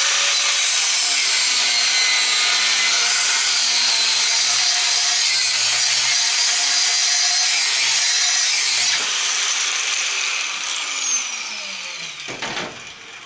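Power tool cutting off a piece of an old belt/disc sander, running at full speed for about nine seconds, then easing off and winding down with a falling whine.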